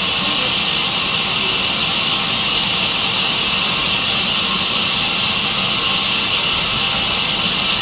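Sawmill saw machine running steadily, a constant high-pitched hiss with a low hum beneath.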